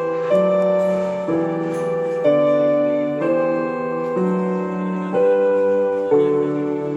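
Slow piano music, moving to a new chord about once a second.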